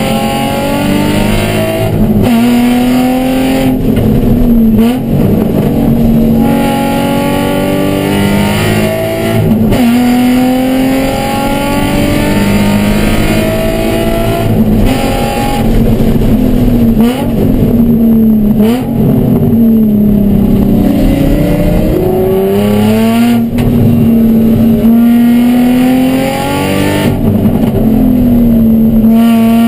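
Nissan 350Z's 3.5-litre V6, heard from inside the cabin at racing speed. The engine note climbs under acceleration and drops sharply at each gearchange or lift, over and over. The car is being short-shifted because an ECU fault leaves it down on power.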